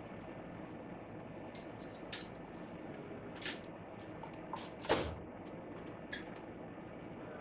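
A handful of short clicks and knocks from tools and parts being handled during bike engine work, the loudest about five seconds in, over a steady background hum.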